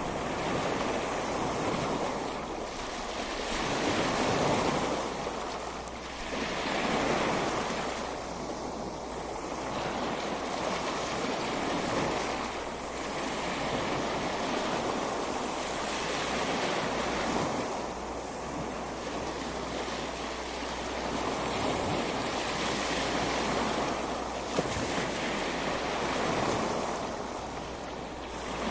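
Ocean surf breaking on a beach, a continuous rush of water that swells and falls back every few seconds as each wave comes in.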